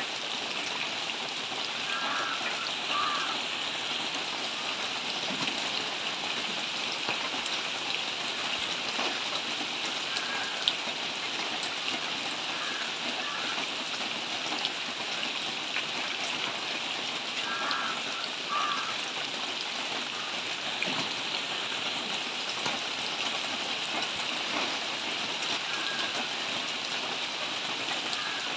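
Steady rain falling on tree foliage, an even, dense hiss, with one sharper tap near the middle.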